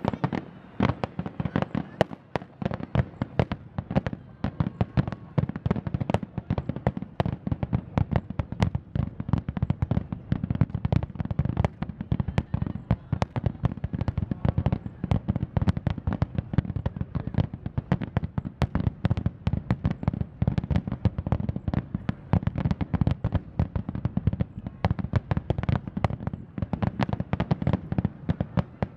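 Fireworks finale: a dense, continuous barrage of aerial shell bursts, several bangs a second with no let-up, heard from a distance.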